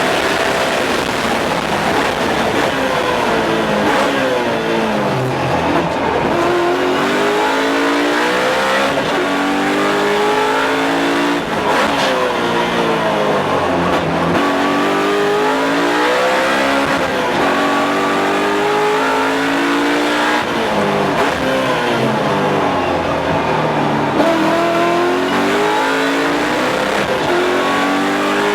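BMW M3 race car's V8 engine, heard from inside the car. It revs hard up through the gears, and its pitch drops in quick steps as it downshifts on braking for corners, several times over.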